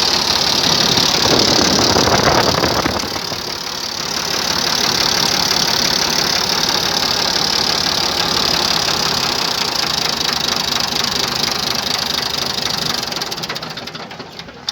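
Ford 4600 tractor's three-cylinder diesel engine running, louder for a couple of seconds near the start, then steady, and fading away near the end.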